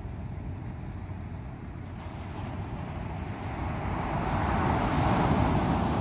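Ocean surf: a steady wash of waves, with one wave swelling and breaking loudest about five seconds in, then easing.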